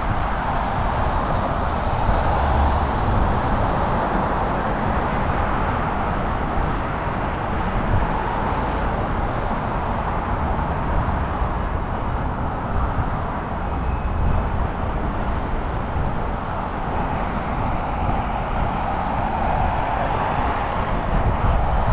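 Steady road traffic noise from cars passing on a busy city road, an even hiss of tyres over a constant low rumble.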